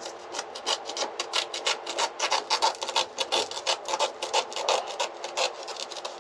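Quick, rasping rubbing strokes, about six a second, worked over a freshly laid fibreglass and peel-ply laminate on a boat bulkhead.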